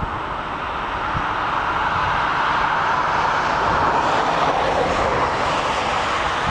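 Intermodal freight train rolling past, a steady rush of wagon wheels on the rails that grows louder over the first few seconds and then holds.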